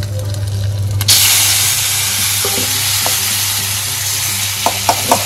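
A tomato hits hot ghee in a kadai holding cumin, dried red chilli and ginger, and the oil bursts into a loud, steady sizzle from about a second in: the tempering for dalma. Near the end, a metal ladle taps and scrapes in the pan a few times.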